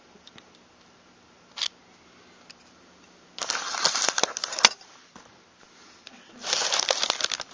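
Metal parts of a Maverick 88 pump shotgun being fitted together by hand: two bursts of scraping and clicking, the first ending in one sharp click.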